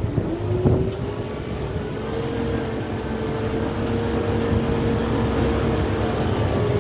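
Kubota M6-141 tractor's diesel engine running under load as it works a root grapple. The engine pitch rises about two seconds in and holds steady, with one knock near the start.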